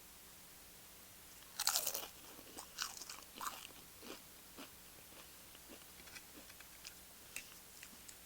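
A loud crunching bite into a tortilla chip about one and a half seconds in, followed by crunchy chewing that grows fainter and sparser.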